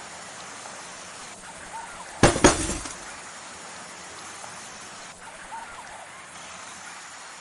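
A sudden crash about two seconds in: a few hard knocks within half a second, with a short ringing tail, over a steady hiss.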